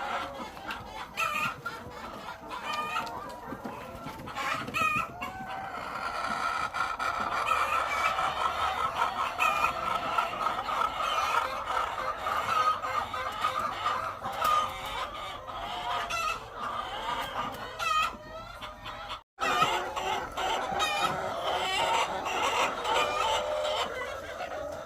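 A large flock of egg-laying chickens calling, many overlapping calls at once, with a brief sudden break about nineteen seconds in.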